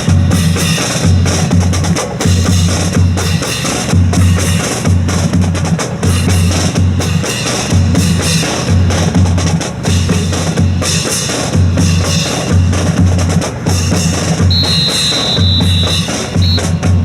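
Percussion music: a bass drum keeps a steady repeating beat under snare-drum hits. About fourteen and a half seconds in, a high steady tone sounds for about a second and a half, followed by a short repeat.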